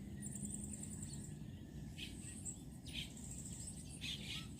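Faint outdoor ambience: a high, pulsing trill through about the first second and a few short high chirps later, over a low, steady background noise.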